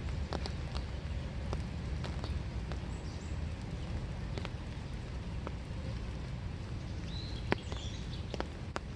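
Winter rain dripping in a small wood, with many scattered sharp drop ticks over a steady low rumble. A couple of faint bird chirps come in briefly midway and again near the end.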